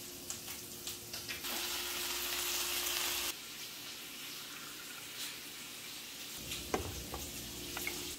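Steady hiss of rain heard through an open window, swelling louder for a moment and then cutting off suddenly a little over three seconds in. Quieter kitchen handling sounds follow, with a few light clicks and a soft knock.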